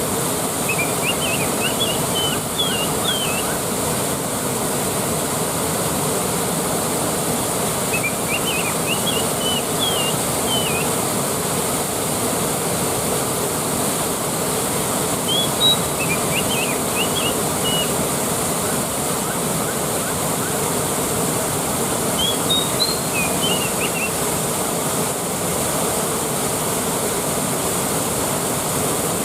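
A waterfall rushing steadily, with a small bird's short high chirping phrases four times, about every seven seconds.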